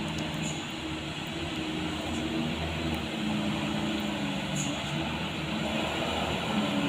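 Truck engine running steadily under a dense steady hiss of rain.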